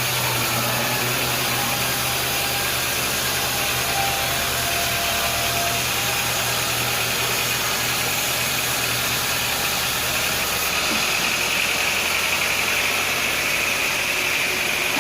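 Sawmill machinery running steadily: an engine-like hum under a broad mechanical noise. The low hum changes about eleven seconds in.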